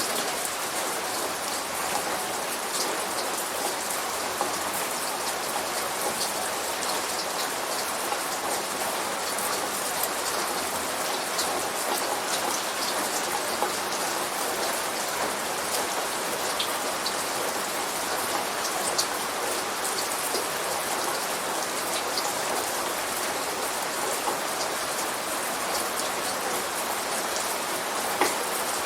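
Steady light rain falling, an even hiss with many small drop ticks.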